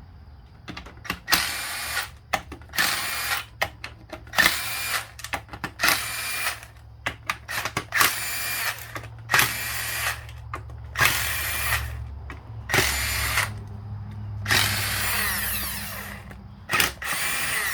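Power tool spinning bolts out of an automatic transmission case in short runs of about a second each, around ten in all, with one longer run near the end. A steady low hum sits underneath.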